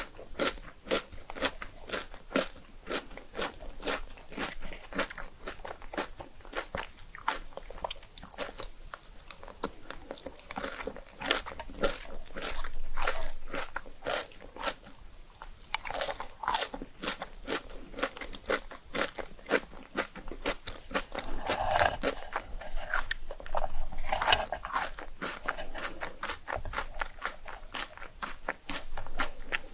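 Crunching and chewing of crisp rice cakes close to the microphone, a steady run of about two or three crunches a second with a few louder bites along the way.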